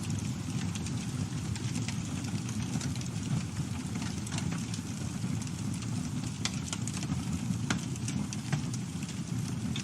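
Campfire burning: a steady low rumble of flames with scattered sharp crackles and pops of burning wood at irregular moments.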